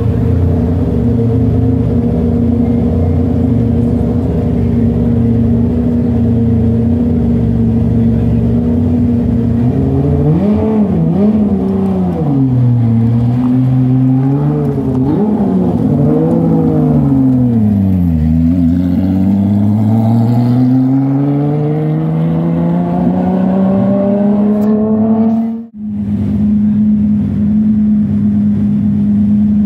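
A Porsche 911 rally car's engine idling steadily, then blipped through a string of short revs, then rising smoothly in pitch as it pulls away. Near the end the sound drops out for a split second, and a steady engine note carries on after it.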